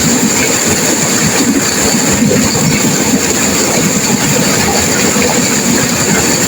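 Turbulent river water rushing and crashing over rapids: a loud, steady, unbroken rush.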